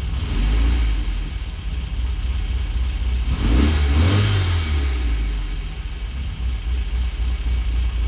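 1970 MGB GT's four-cylinder engine running shortly after a cold start, started without choke. It is revved once about three and a half seconds in, the note rising and falling, then drops back to a steady idle.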